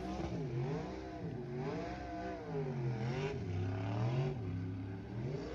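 Rat rod's engine revving up and down during a burnout, its pitch rising and falling several times over a haze of tyre and crowd noise.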